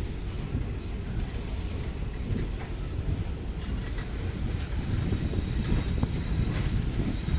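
Passenger train running along the track: a steady low rumble of wheels on rails with scattered clicks, and a faint thin high squeal now and then in the second half.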